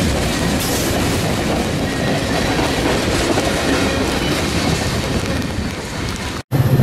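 Freight train of tank cars and boxcars rolling past, with steady wheel-on-rail noise. Near the end the sound cuts off abruptly, and after a brief silence a deep, steady low hum begins.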